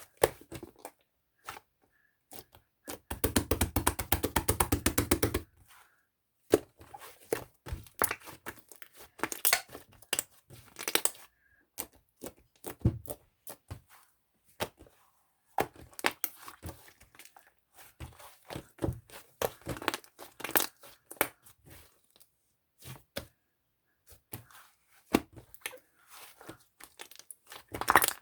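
Irregular sharp clicks, taps and crackles from objects being handled, with a dense run of rapid clicking about three seconds in that lasts a couple of seconds.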